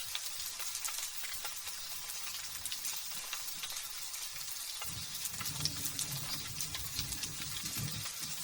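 Light drizzle pattering as a steady hiss of many small drop ticks. About five seconds in, a low, distant rumble of thunder rises under the rain and dies away after about three and a half seconds.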